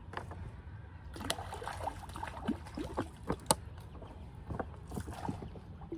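Water splashing with scattered irregular clicks and knocks, the sharpest about three and a half seconds in, over a steady low rumble.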